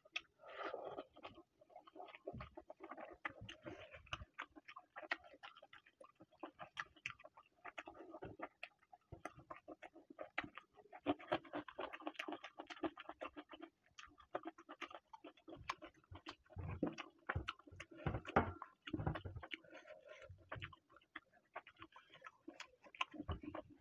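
Close-up chewing and mouth sounds of a person eating chicken and rice by hand: many short, irregular clicks and small wet noises.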